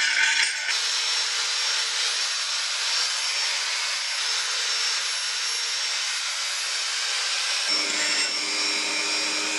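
Power tool spinning a wire wheel against rusty metal, a steady whir with a high scratchy hiss as it strips the rust. Its pitch shifts about a second in and again near the end.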